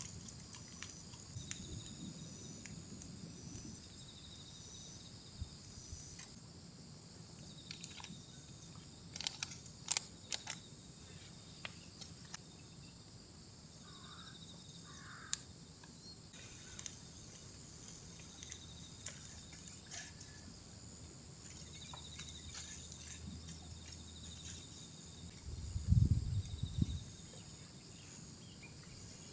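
Insects chirping in repeated pulsing trains, with scattered light clicks and knocks and a brief low rumble near the end.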